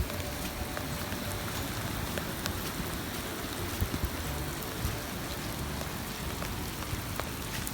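Steady rain falling, with many close drop hits, as runoff water rushes across bare, washed-out soil.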